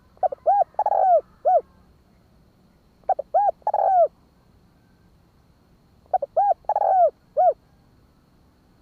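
Spotted dove cooing: three phrases about three seconds apart, each a quick run of short, arched coos ending in a longer note.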